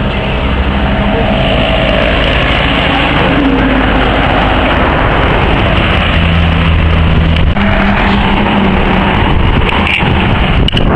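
A motor vehicle engine runs steadily under a loud, continuous rushing noise. The engine's hum shifts in pitch about six seconds in.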